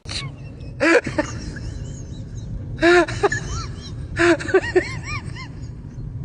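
A pet animal giving short, high-pitched whimpering calls, each rising and falling in pitch, in small clusters about a second in, around three seconds in and again a little after four seconds, over a low background rumble.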